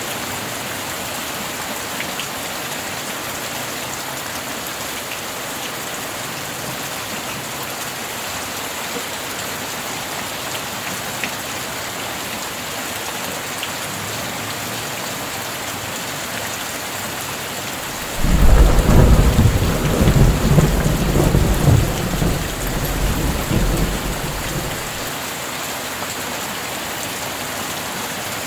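Steady heavy rain falling on a roof, with a clap of thunder breaking in suddenly about two-thirds of the way through and rumbling for several seconds before fading back under the rain.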